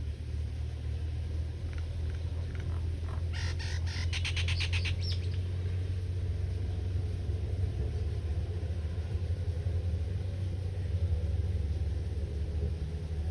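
A bird gives a rapid trill of about eight notes a second for roughly two seconds, about three seconds in, with a few faint chirps at other times. Under it a steady low rumble runs throughout.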